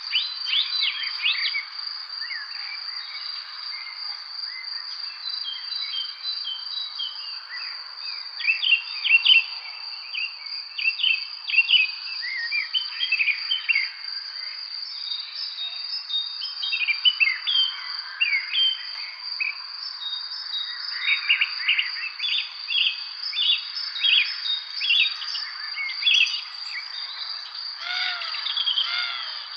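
Several songbirds chirping and singing in an evening spring chorus, with short calls and warbles overlapping throughout. Beneath them runs a steady high-pitched insect trill.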